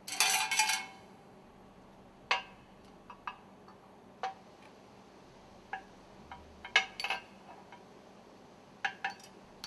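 Metal stuffing-box ring segments clinking as they are handled and set down on a work table: a rattling clatter in the first second, then scattered single sharp clinks.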